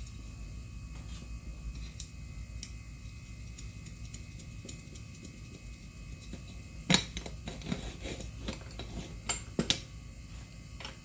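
Metal tools and parts clinking and knocking during hand work on a scooter, light clicks early and a cluster of sharper knocks from about seven seconds in, over a steady low hum.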